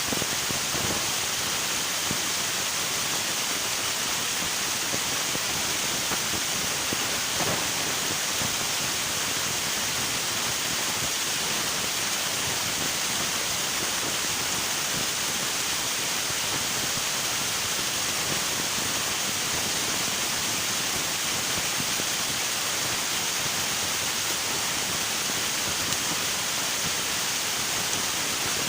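River water flowing, a steady rushing noise that does not change.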